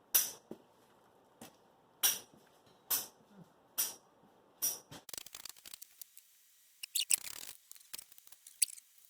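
Hand-tool and parts handling: five sharp clicks about a second apart, then a quicker run of crackling clicks and small rattles.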